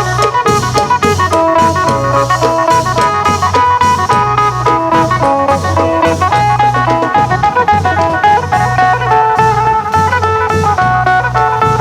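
Isan procession music: a phin, the plucked northeastern Thai lute, picks a fast, busy melody over klong yao long drums beating a steady rhythm, with quick metallic cymbal strikes.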